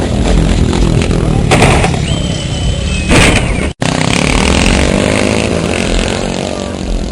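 Motocross motorcycle engines running and revving, the pitch rising and falling, with a brief cut to silence just under four seconds in.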